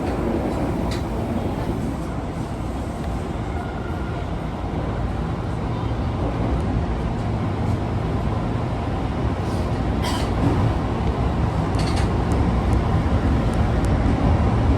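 Osaka Metro Tanimachi Line subway train running with a steady low rumble. A few sharp clicks come through about a second in and again around ten and twelve seconds.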